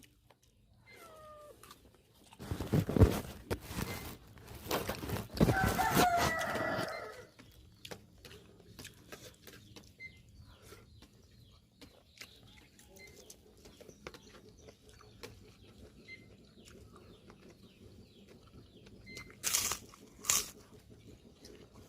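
Free-range village chickens: a short falling call about a second in, then a rooster crowing once, about six seconds in, for a second and a half. Loud knocks come before the crow and again near the end, with faint scattered clicks in between.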